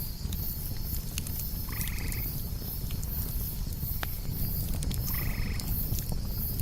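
Campfire crackling with scattered sharp pops over a low rumble, under crickets chirping about three times a second against a steady high trill. A short rasping animal call comes twice, about three seconds apart.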